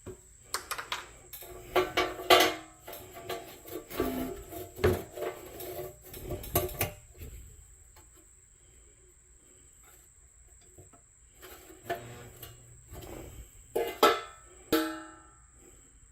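Irregular metal clinks and knocks from the pressed-steel toy truck and its parts being handled, several with a short ring, and a quieter pause midway.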